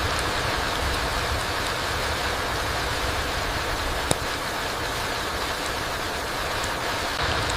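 Steady rain falling through a forest onto the ground: an even hiss with a low rumble underneath, and one sharp tick a little past halfway.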